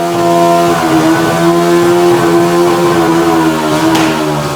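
Car engine held at steady high revs, a loud, even note that dips slightly about a second in and then holds.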